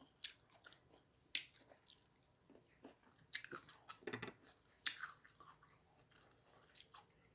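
Close-up chewing of crunchy, unripe mango: irregular crisp crunches and bites, a few of them sharper than the rest.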